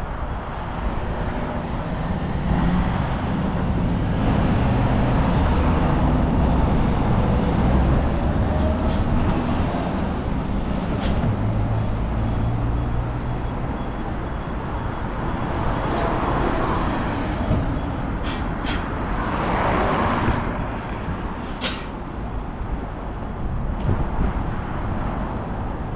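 City road traffic going by: a steady rumble of engines and tyres, with one vehicle passing closer and louder about two-thirds of the way in.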